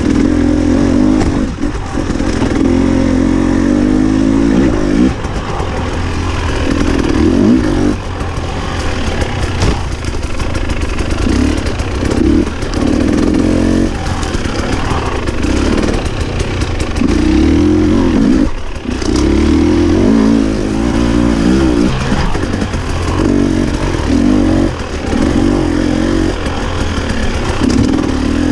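Husqvarna TE300i two-stroke enduro bike's engine under constantly changing throttle on trail, revving up in bursts of a second or two and dropping back between them, with a short throttle-off dip about two-thirds of the way in. Light clattering runs through it.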